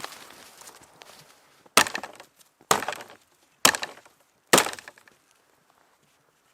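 Wood being chopped: four sharp strikes about a second apart.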